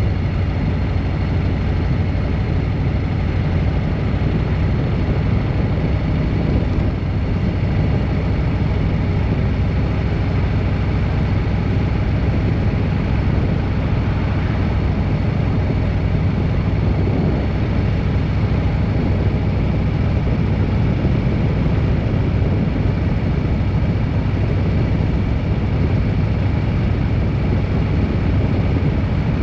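Vehicle on the move at a steady pace: a constant low engine and road noise with faint steady whines, no change in speed.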